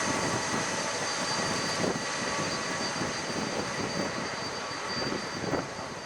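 Jet airliner engines running: a steady rushing noise with high whining tones, slowly fading.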